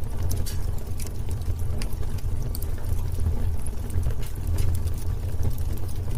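Wood fire burning in a fireplace: a steady low rumble of the flames with frequent sharp crackles and pops of burning wood.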